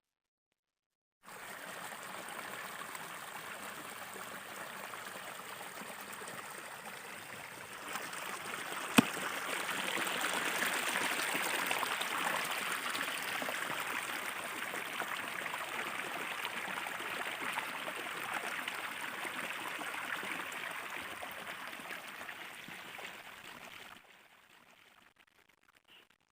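Stream or river water rushing steadily. It starts abruptly and grows louder partway through, with one sharp click about nine seconds in.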